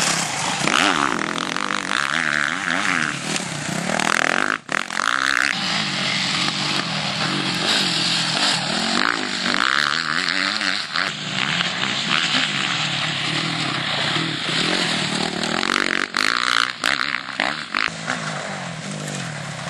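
Motocross bike engines running, their pitch rising and falling over and over as the riders open and shut the throttle, with a brief drop about four and a half seconds in.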